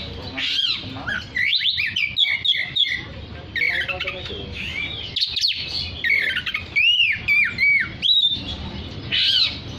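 Oriental magpie-robin (kacer) singing vigorously: a rapid, varied string of whistled notes that rise and fall, broken by short pauses.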